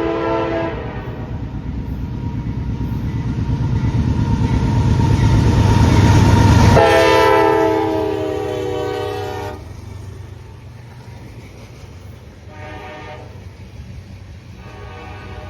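CSX freight train M510 passing at a grade crossing, its lead locomotive sounding the horn in separate blasts, one long, then a short one, then another long one near the end. The diesel locomotives grow loud as they come by about six to seven seconds in, where the horn drops in pitch, and the train's cars then roll by more quietly.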